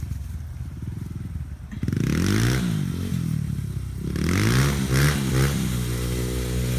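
Dirt bike engine revving up and down in several quick blips of the throttle, then settling to a steady idle near the end.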